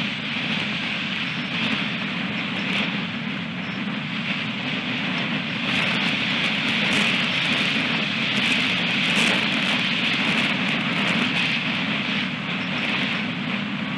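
Strong wind blowing over an outdoor nest-camera microphone: a steady rushing noise that swells somewhat through the middle, with faint scattered ticks.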